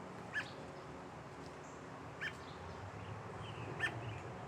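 American robin chirping: three short, sharp chirps spaced about a second and a half to two seconds apart, the last the loudest.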